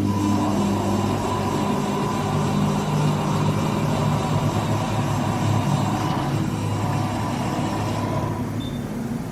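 2007 Haas TM-2 CNC toolroom mill running under power: a steady mechanical hum with several held tones. The low tone shifts a couple of seconds in, and a higher whine drops out near the end.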